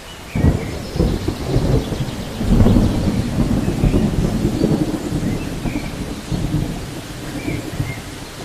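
Thunderstorm ambience: steady rain with low rolling thunder that swells in about half a second in and rumbles on, strongest around the middle.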